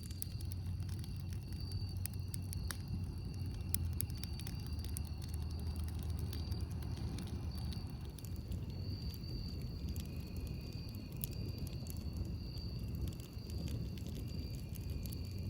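Campfire crackling, with frequent sharp irregular pops and snaps over a steady low rumble, and a thin steady high-pitched tone running beneath.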